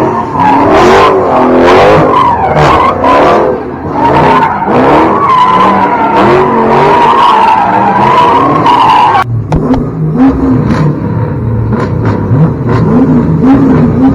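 A car doing a burnout or donuts: tyres squealing in a loud, wavering high wail over an engine revving up and down. The squeal cuts off suddenly about nine seconds in, leaving the engine revving.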